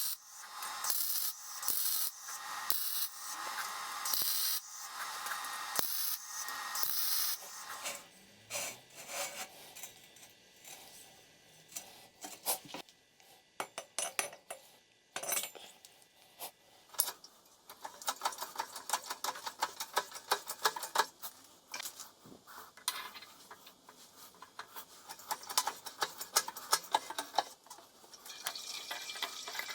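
Hand abrasive work on a workpiece: rasping strokes a little faster than one a second. After about 8 seconds they give way to quieter scattered clicks and taps, then lighter, quicker scraping.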